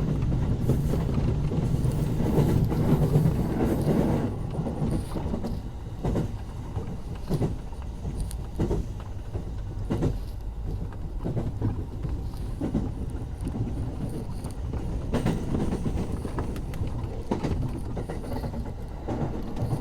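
Electric commuter train running on the rails with a steady low rumble, its wheels clacking over rail joints every second or two. The rumble is louder for the first few seconds, then settles lower.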